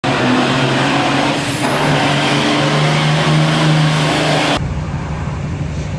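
Pulling tractor's diesel engine running loud, with a dense rush of noise over its steady note. About four and a half seconds in it gives way abruptly to a quieter, lower engine rumble.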